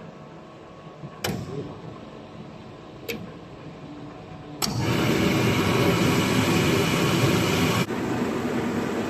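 A glass washing machine running with a steady hum and two sharp clicks. A little past halfway a much louder, even rushing noise starts abruptly and drops slightly in level near the end.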